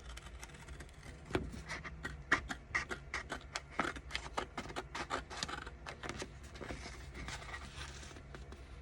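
Scissors cutting paper: a run of short, irregular snips through the middle, tailing off near the end.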